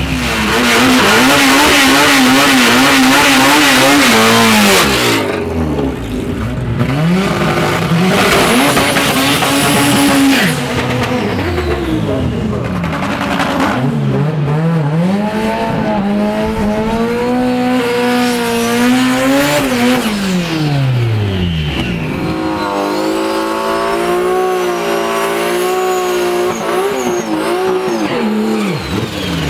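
Turbocharged drag cars doing burnouts: an engine held at high revs with tire squeal for the first few seconds, then engines revving up and dropping back again and again.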